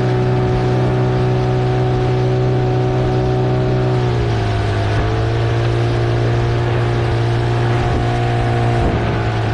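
15-horsepower outboard motor running at speed and pushing a small inflatable boat on a speed run, a steady drone. Its pitch drops a little about four seconds in and dips briefly again near the end.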